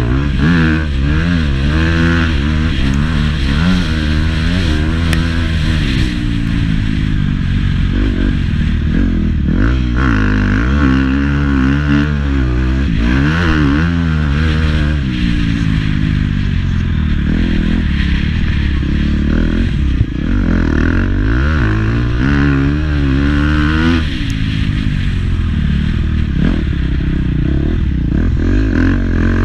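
Motocross bike engine being ridden hard, its pitch climbing and dropping again and again with the throttle and gear changes, with some clattering from the bike.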